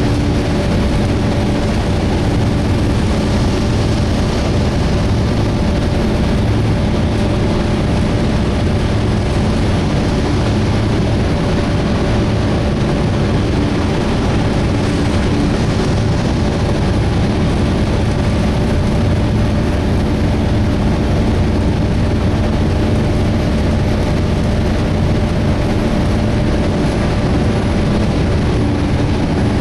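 Volvo B7TL double-decker bus with its Volvo D7C six-cylinder diesel and engine cooling fan running, heard from inside the bus as a steady, loud drone with a couple of steady hum tones and a faint high whine. The cooling fan runs without its usual screech.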